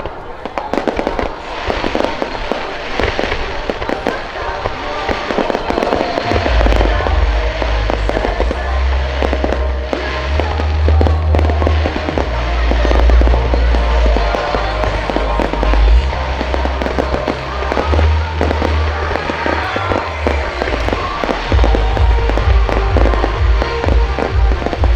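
Fireworks display with dense, rapid bangs and crackling that go on without a break. Music with a heavy, stepped bass line joins about six seconds in.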